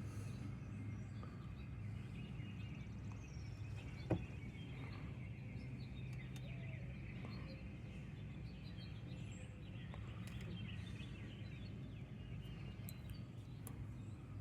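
Quiet background ambience: a steady low hum with faint bird chirps, and a single sharp click about four seconds in.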